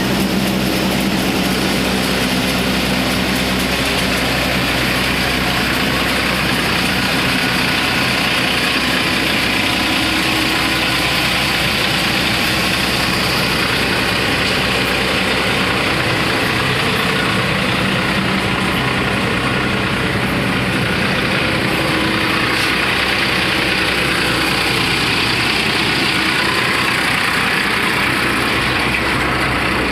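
Tractor-driven Jangeer thresher running steadily while cleaning groundnuts: the tractor engine and the thresher's machinery make a loud, continuous mechanical din.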